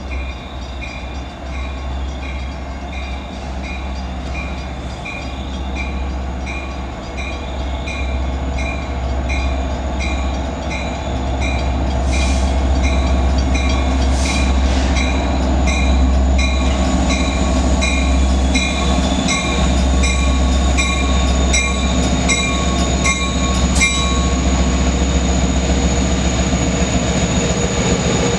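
LIRR DM30AC diesel locomotives running with a deep, steady rumble that grows louder about halfway through, while a bell rings steadily about twice a second until near the end.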